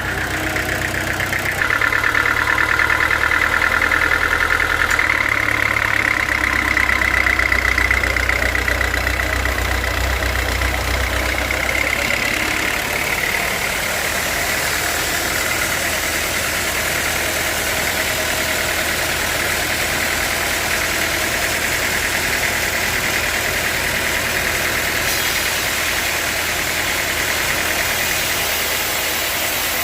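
Sawmill saw and its drive motor running while sawing an old teak log. The cut is loudest through the first dozen seconds, then the machine runs on steadily.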